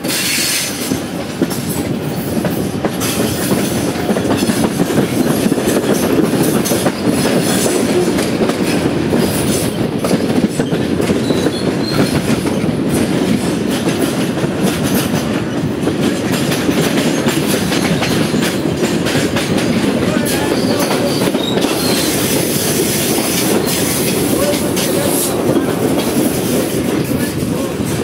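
Electric commuter train running through yard tracks, heard from aboard: a steady rumble of wheels on rail with clickety-clack over joints and switches. A faint high wheel squeal comes and goes now and then.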